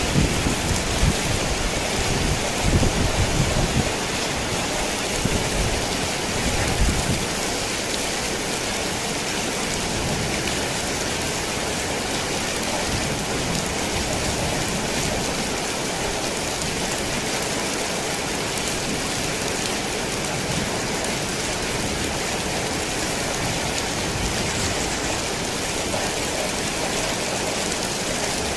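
Heavy rain drumming steadily on a tin roof, a dense even hiss. A low rumble of thunder runs through the first several seconds and fades out.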